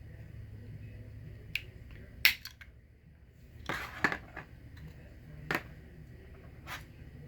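Plastic case of a BMW remote key fob being worked open at its small release hole: several sharp plastic clicks, the loudest about two seconds in, and a short scrape about four seconds in.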